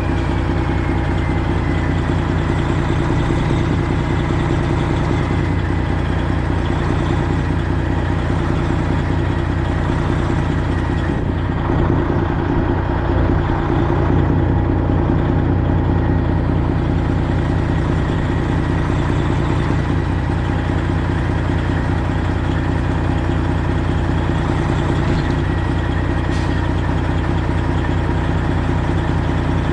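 Straight-piped Detroit Diesel 12.7 L engine of a Freightliner Classic XL semi truck idling steadily at one even pitch.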